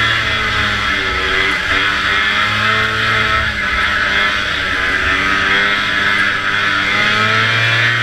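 Vintage racing snowmobile's two-stroke engine running hard at high revs, its pitch wavering up and down with the throttle.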